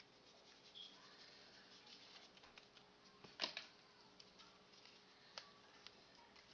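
Near silence: room tone with a few faint clicks, the clearest about three and a half seconds in.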